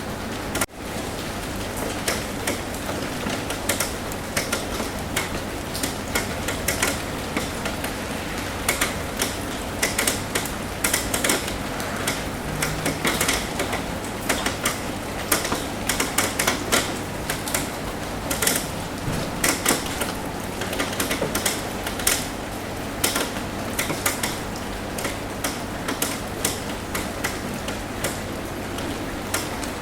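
Rain on a roof: many irregular, sharp drop taps over a steady hiss of rainfall. The sound cuts out briefly about a second in.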